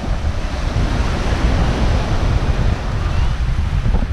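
Sea waves washing in, with wind buffeting the microphone in a heavy, uneven rumble. The wash of the surf swells about a second or two in.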